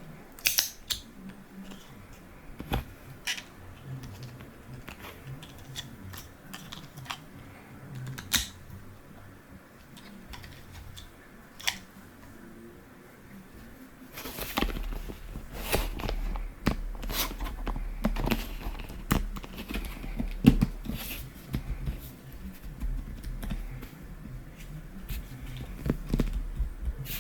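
Sharp clicks and taps of hard 3D-printed PETG plastic stand parts being handled. They come scattered at first, then about halfway through become a denser run of clicks over a low rumble.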